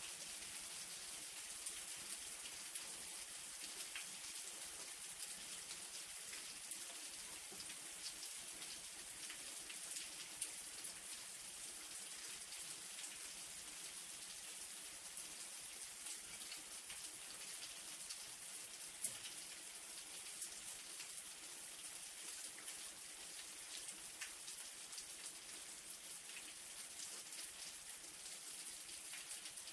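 Light rain falling steadily, a soft hiss with the scattered taps of individual drops hitting a surface.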